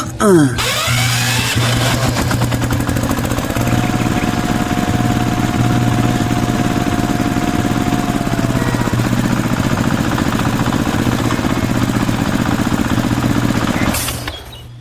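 A small engine running steadily, with a falling whine right at the start, cutting off near the end.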